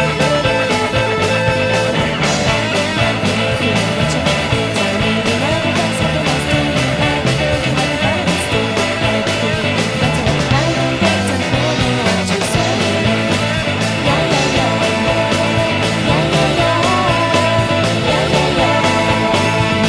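Rock band recording: distorted guitars with drums hitting at a steady beat, playing continuously at a constant loud level.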